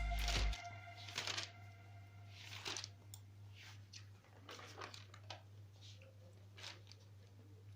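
Paper rustling and handling in about eight short, scattered rustles over a steady low hum, following a music track that cuts off about half a second in.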